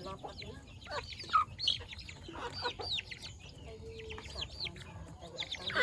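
Chickens clucking and calling, many short overlapping calls.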